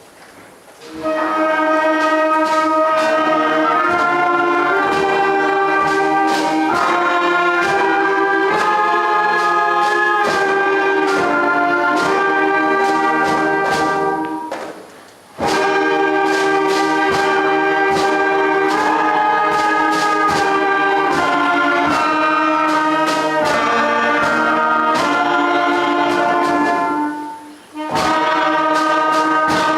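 A primary school concert band of woodwind, brass and percussion playing a celebratory piece from 1749, in sustained chord-like phrases. The music starts about a second in, with short breaks between phrases near the middle and just before the end.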